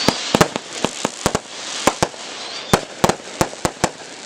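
Brothers Fireworks Oktoberfest 500-gram cake firing its finale: about a dozen sharp bangs in quick, irregular succession as the shots burst, over a crackling hiss that fades during the first couple of seconds.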